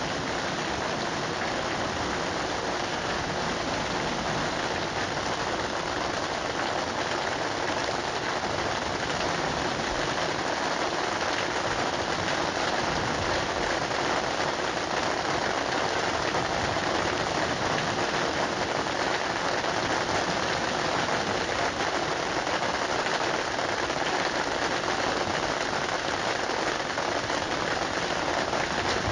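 Steady rain falling: a dense, even patter of countless drops on a surface, unbroken throughout.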